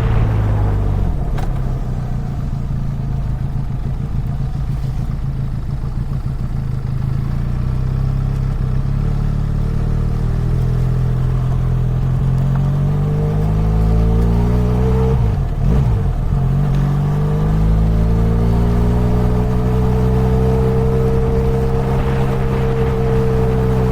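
Motorcycle engine running while riding, its pitch dropping about halfway through and then rising again before holding steady.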